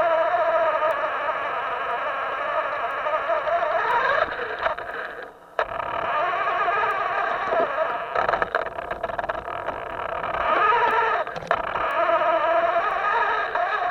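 Small electric motor of a radio-controlled boat whining, its pitch wavering up and down with the throttle. It drops away for about a second some five seconds in, then comes back.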